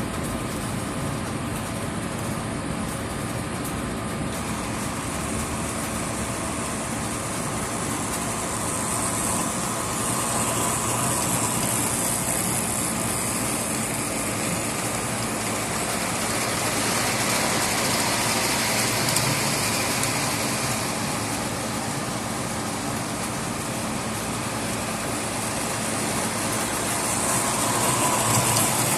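Lionel model train running steadily on its track, a continuous motor and wheel noise that grows a little louder three times as it comes close.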